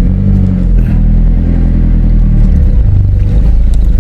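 Car engine running in a river crossing, its note holding steady and then dropping about two and a half seconds in.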